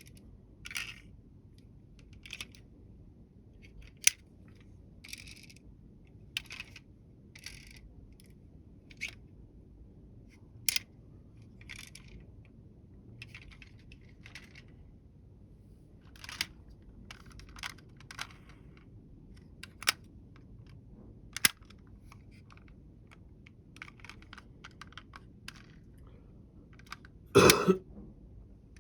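Toy vehicles being handled: scattered light clicks, taps and rattles at irregular intervals as models are picked up and set down, with one longer, louder clatter near the end.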